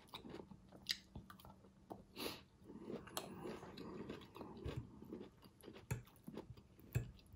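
A person chewing a mouthful of sautéed zucchini and squash close to the microphone: faint, irregular mouth clicks and soft crunches.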